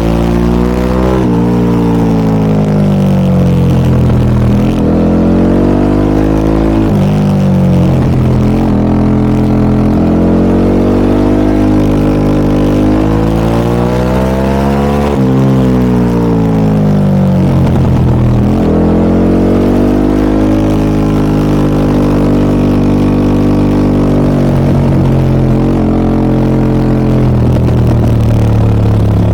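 Harley-Davidson Pan America 1250 Special's Revolution Max V-twin running through a Scorpion aftermarket muffler. The engine pitch climbs and drops several times as the bike accelerates and slows, with a few sudden pitch changes.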